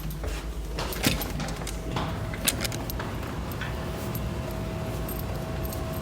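Handling noises: a few sharp clicks and knocks over a steady low rumble, the strongest about a second in and again about two and a half seconds in.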